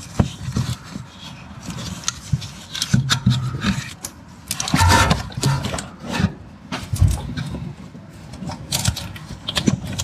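Rubber air spring and its plastic and metal mounting parts being twisted and worked loose by hand: irregular rubbing and scraping with scattered clicks, loudest about halfway through.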